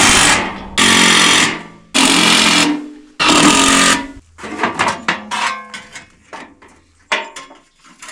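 Power driver sinking self-tapping screws into steel in four loud runs of about a second each, followed by a few lighter clinks and knocks.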